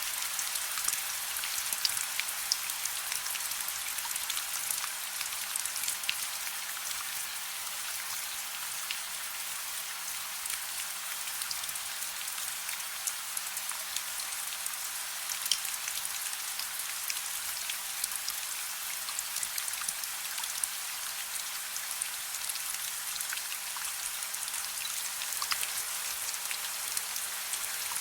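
Steady gentle rain: an even hiss with many separate drops ticking sharply on a surface, scattered at random.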